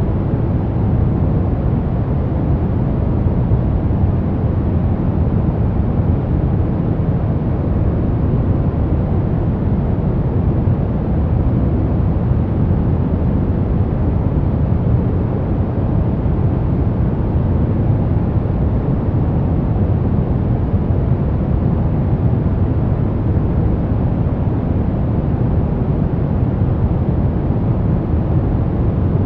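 Steady, unchanging sleep noise sold as white noise. It sounds deep and rumbling rather than hissy, with most of its weight in the low range and little treble.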